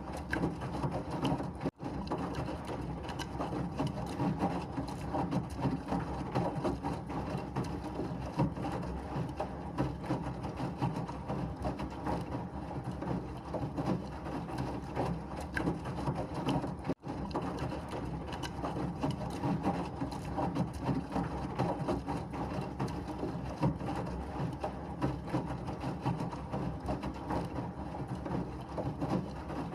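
Washing machine running, a steady mechanical churning noise with a fine rattle. It cuts out for an instant twice, about two seconds in and about seventeen seconds in.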